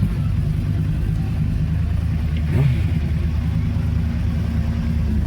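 A vehicle engine running at a steady idle, with a brief swell in level about halfway through.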